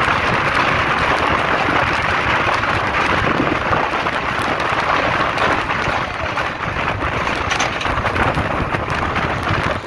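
Lichchavi Express passenger train running over a steel truss railway bridge, heard from an open door: a loud, steady rumble and rattle of the coaches mixed with rushing air. It eases slightly a little past halfway as the train leaves the bridge for the embankment.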